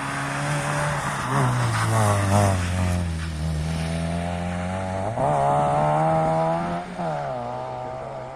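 A rally car's engine under hard driving. The revs drop step by step early on as it slows, hold low, then jump sharply about five seconds in as it accelerates hard, and fall away again about two seconds later.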